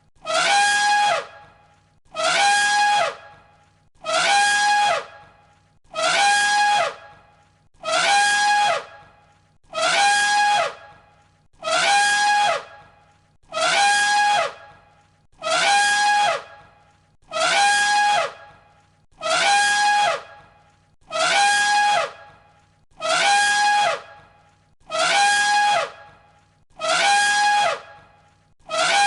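An elephant trumpeting, one identical call looped over and over, about every 1.8 seconds. Each call is a loud, high blare about a second long that holds its pitch and then drops away at the end.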